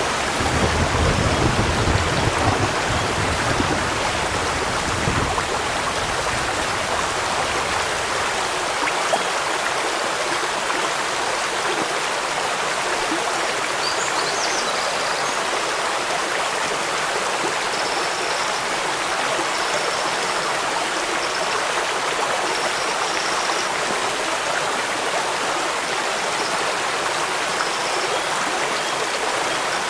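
Steady rushing water of a stream, with rain falling, heard as an even hiss. A deeper rumble under it in the first five seconds drops away about five seconds in.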